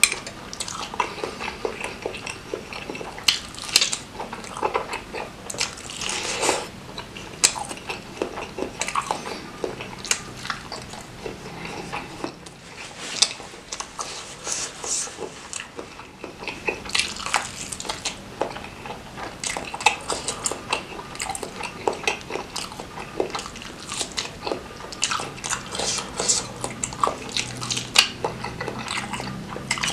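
Close-up chewing and eating sounds of a person biting into and chewing bakso mercon, a beef meatball filled with chili, in spicy broth: irregular wet mouth clicks and bites throughout.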